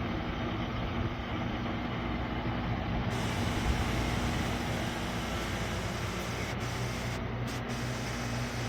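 SereneLife portable air conditioner running: a steady rush of fan air over a low hum. The hiss turns brighter about three seconds in.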